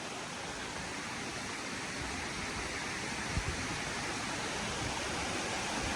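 Steady rushing noise of heavy rain and creek water running over rocks, growing a little louder, with one faint thump about three and a half seconds in.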